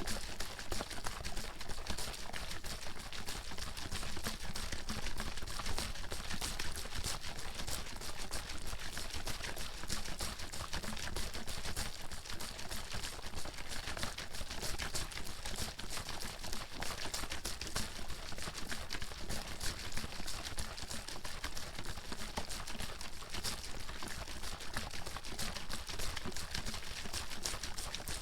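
Water bottle being shaken hard and continuously, the water sloshing and slapping inside in a fast, unbroken clatter.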